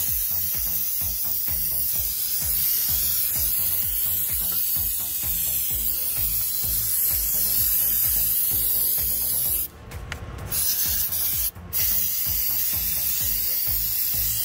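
Aerosol can of contact cleaner spraying in a loud, steady hiss, cut off briefly about ten seconds in and again a second later, then resuming.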